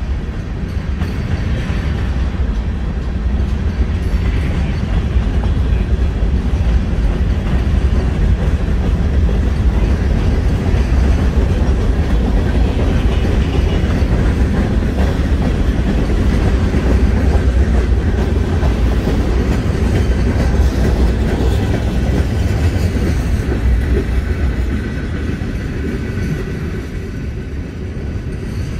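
Mixed freight train of boxcars, covered hoppers and tank cars rolling past, its steel wheels running steadily on the rails. The sound eases off near the end as the last cars go by.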